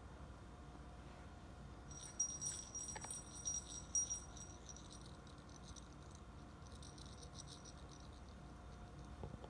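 A small bell jingling and rattling in quick, irregular shakes for about two and a half seconds, then lighter, fainter jingles.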